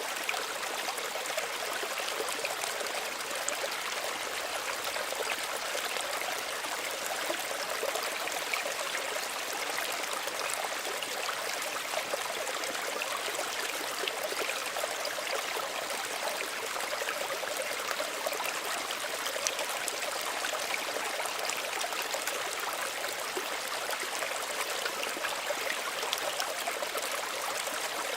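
Small stream running over stones: a steady, gentle babble and trickle of water.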